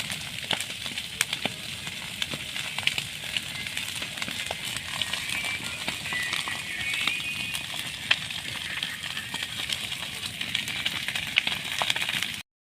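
Burning dry forest undergrowth crackling, with irregular sharp snaps over a steady hiss. It cuts off abruptly near the end.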